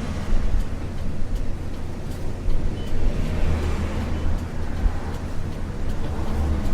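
Isuzu U-LV224N bus's 6QB2 diesel engine running with a steady low rumble, heard from inside the bus.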